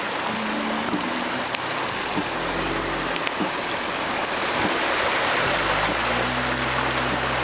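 Storm runoff rushing down a flooded country lane: a loud, steady rush of water with scattered sharp ticks, and a few held low tones underneath.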